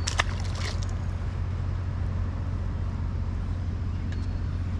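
A rock bass being released drops back into the creek, making a brief splash in the first second, over a steady low rumble.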